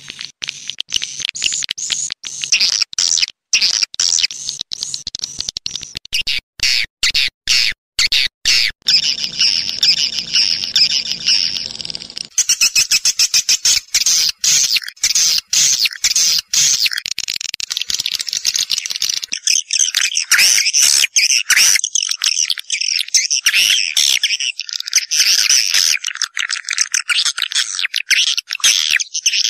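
Recorded swiftlet calls: a dense, high twittering chatter mixed with rapid clicks, changing abruptly in texture twice as passages switch. It is a swiftlet lure call track, played to draw swiftlets into a swiftlet house.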